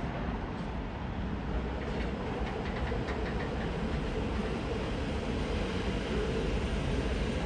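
Train moving through a station: a steady rumble with a droning hum and a few light clicks about two to three seconds in.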